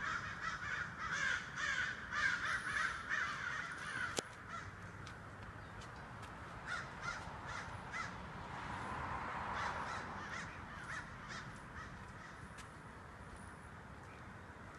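Many crows cawing together, their calls overlapping densely, then thinning out after a sharp click about four seconds in, with scattered caws continuing more faintly.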